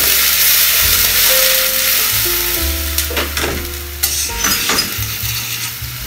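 Chicken thigh and garlic sizzling hard in olive oil in a wok, the white wine just poured in boiling off, the sizzle easing slowly. Metal tongs click against the pan a few times as the chicken is stirred.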